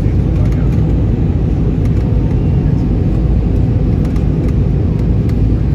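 Airbus A319 cabin noise: a steady low rumble of jet engines and rushing air heard from inside the passenger cabin.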